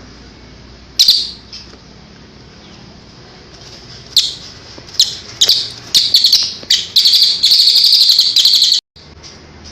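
Songbird calling loudly: a sharp call about a second in, then a series of shrill calls from about four seconds that runs into a long, rapid trill, which cuts off abruptly near the end.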